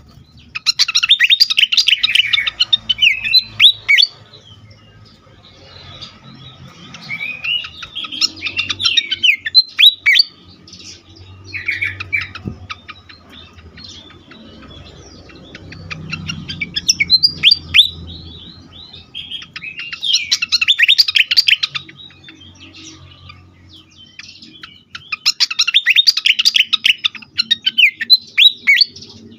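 Sikatan kipas songbird singing in agitated bouts of rapid chirps and quick falling notes, about five bouts with short pauses between them. It is the frenzied song used as a lure to stimulate other birds.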